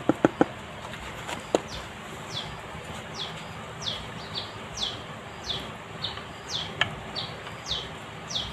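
A bird calling over and over, each call a short high note sliding downward, about once a second. A few sharp clicks come in the first half second.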